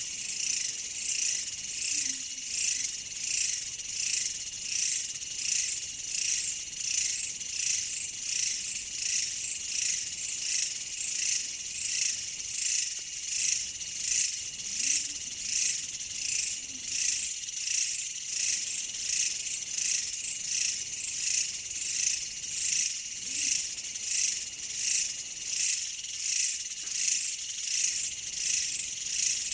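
Chorus of insects: a dense, high-pitched trill that pulses in a steady rhythm, about one and a half swells a second.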